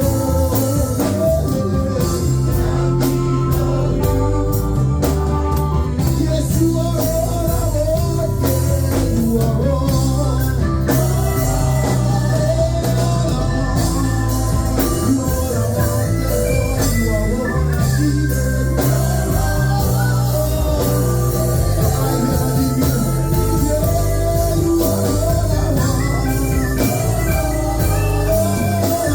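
Live worship band music with organ, bass and drums, and singing.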